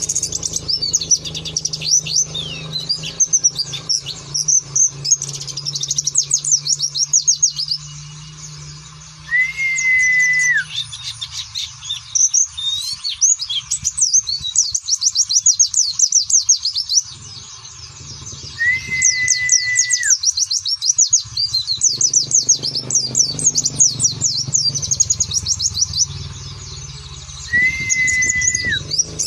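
White-eye (pleci) songbird singing in fast, high-pitched twittering trills, the rapid 'nembak' song bursts, with brief pauses. A short, flat whistled note with a drop at its end recurs about every nine to ten seconds.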